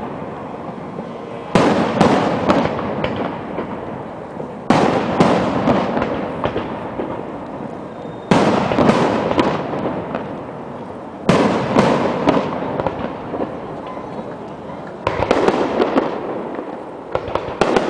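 Fireworks display: a loud aerial shell burst every three to four seconds, each followed by a dense crackle that fades away before the next one.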